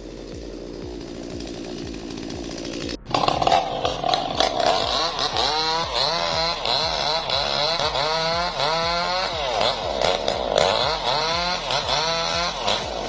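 Chainsaw running and cutting, quieter at first, then much louder from about three seconds in, its engine pitch rising and falling over and over as it revs and bogs in the cut.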